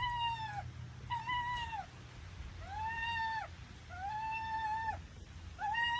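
Domestic fox whining: a run of about five high, drawn-out calls, each rising, holding and then dropping at its end, with short pauses between them.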